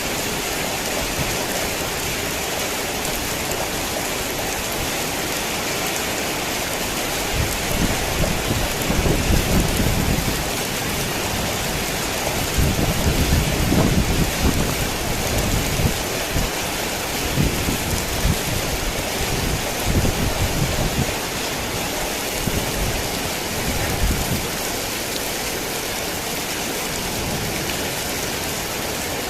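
Heavy rain falling steadily as an even hiss. Low rolling thunder rumbles in swells from about seven seconds in until a few seconds before the end.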